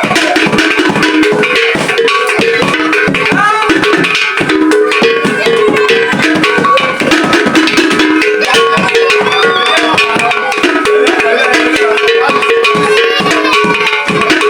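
Nigerian village local music band playing: drums with wooden and metal percussion beating a fast, dense rhythm over a repeating two-note melodic figure.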